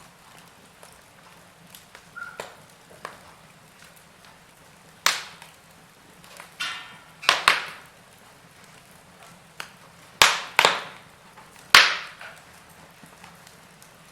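Wood fire crackling in a fireplace: a low steady hiss broken by scattered sharp pops and snaps from the burning logs, the loudest ones in the second half.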